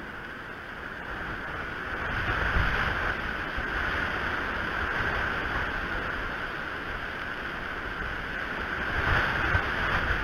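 Wind gusting across the outdoor eagle-nest camera's microphone: a steady rushing noise that grows stronger about two seconds in, with low buffeting rumbles as gusts hit, one early and another near the end.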